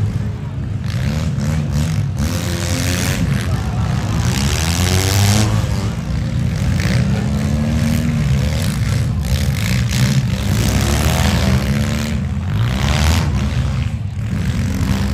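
Several demolition-derby compact cars' engines running and revving hard at once, their pitches rising and falling over one another.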